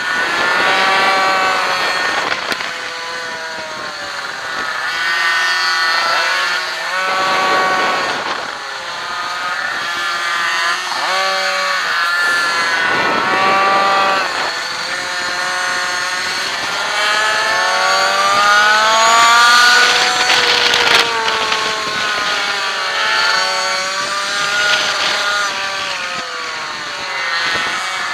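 Minimoto race bike's small two-stroke engine, heard onboard, revving high and dropping back over and over as the bike accelerates out of corners and brakes into the next, with wind rushing past.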